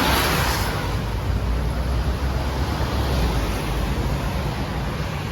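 Road traffic noise, a loud steady rumble of passing vehicles with extra hiss in the first second, starting abruptly.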